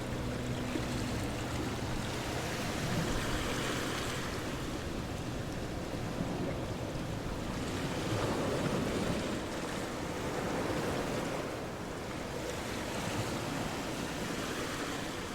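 Water surging and washing in slow swells, with wind on the microphone. A low steady hum fades out about a second in.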